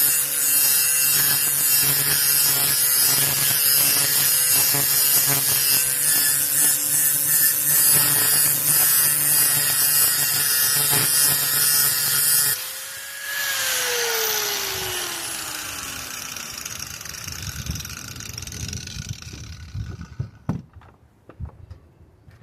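Electric grinder running steadily, grinding the steel edge of a power rake mower blade, with a steady whine and hiss. About twelve seconds in it is switched off, and its whine falls in pitch as the disc spins down. A few light clicks follow near the end.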